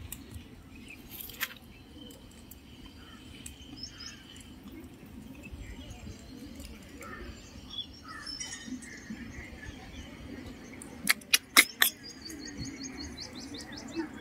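Birds chirping in the background, ending in a fast descending trill. A quick cluster of sharp clicks or snaps near the end is the loudest sound.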